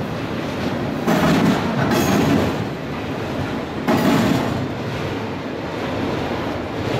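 Freight train of autorack cars rolling past, steel wheels rumbling and clattering on the rails. There are louder surges about a second in and again about four seconds in.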